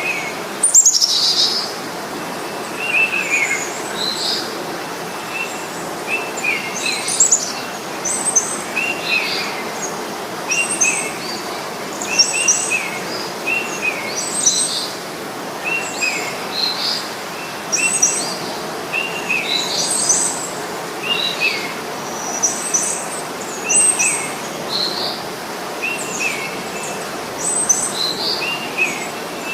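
Songbirds chirping, short calls repeating about once a second, some higher and some lower, over a steady background hiss; one louder falling call about a second in.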